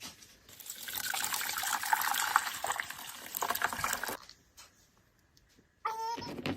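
Water running or pouring in a steady stream for about three and a half seconds, then stopping. A short high whine follows near the end.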